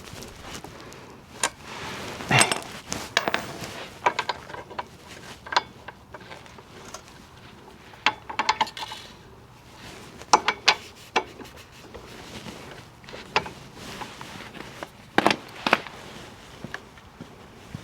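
Metal tools clinking and knocking in short, irregular strikes, some with a brief metallic ring, as work goes on at a motorcycle's front wheel.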